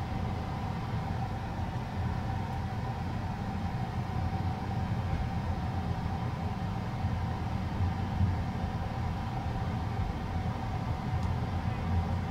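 Running noise of a moving night train heard from inside a couchette car: a steady low rumble with a faint steady hum, and a few light knocks.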